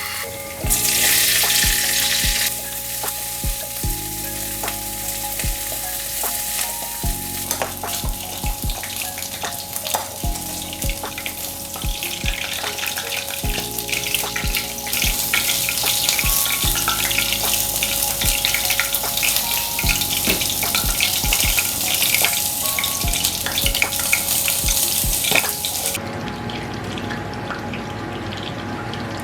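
Food frying in hot oil in a pan, sizzling in a loud burst about a second in, then steadily again from about twelve seconds until it drops away near the end. Soft background music with a steady beat plays under it.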